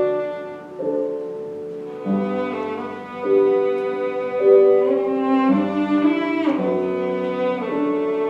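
Cello and piano playing slow classical music, the cello holding long bowed notes that change about once a second over the piano accompaniment.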